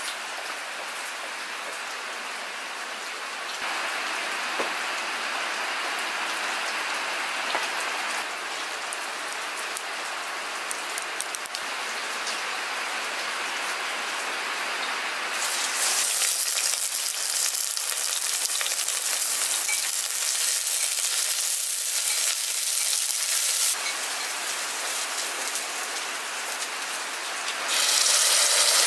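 Steady rain falling, a continuous hiss. From about halfway it turns brighter and louder, and near the end onions and garlic sizzle as they fry in a pot.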